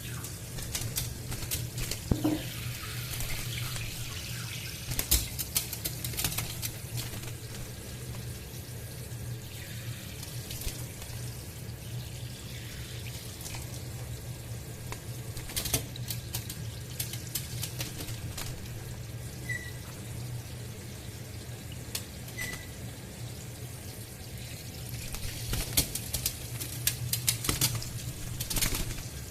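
Water running from a kitchen tap into a sink, with bursts of splashing and flapping as caique parrots bathe in it. Two brief high chirps come about two-thirds of the way through.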